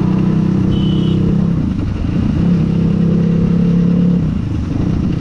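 Motorcycle engine running steadily while riding along in traffic. The engine note eases off about two seconds in, picks up again, then dips briefly near the end as the throttle is rolled off and on.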